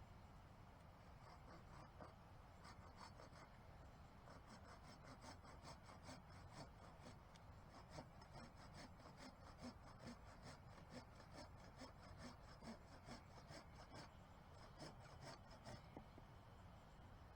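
Faint, regular scraping strokes, about two a second, as from a hand tool drawn back and forth. They start about a second in and stop shortly before the end.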